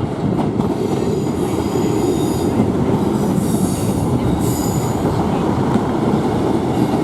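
Two coupled Class 158 diesel multiple units running into the platform: a steady, loud rumble of engines and wheels on the rails, with high-pitched wheel squeal coming and going.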